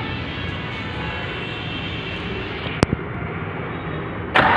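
Steady mechanical drone with a sharp click almost three seconds in, then near the end the Tata DiCOR diesel's starter begins cranking the engine, about five compression pulses a second, to bleed air from the loosened injector pipes.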